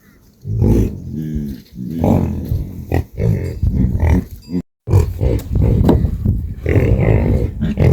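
Farm animals calling with low, drawn-out lowing and grunting, several calls one after another; the sound cuts out completely for a moment about halfway through.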